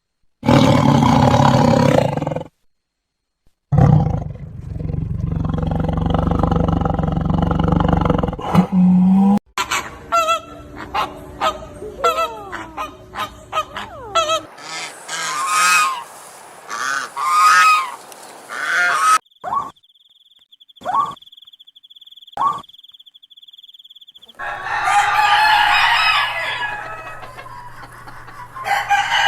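A run of different animal calls spliced one after another, each clip cut off abruptly for the next; several are honking, goose-like or fowl calls.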